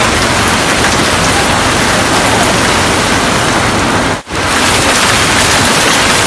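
A storm of heavy rain and strong wind, giving a loud, steady rush of noise that breaks off for an instant about four seconds in.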